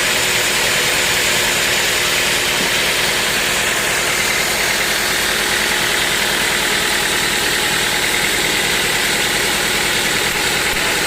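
Sawmill machinery running steadily: a constant engine-like drone that does not let up or change.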